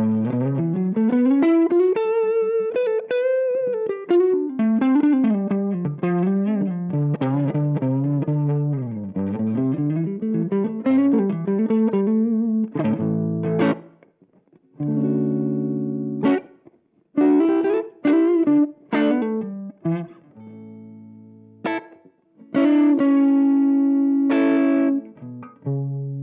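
Electric guitar played through a TC Electronic MojoMojo overdrive pedal. For about the first half it plays a single-note lead line with slides and bends, rising at the start. After that it switches to short, separated chord stabs with pauses between them.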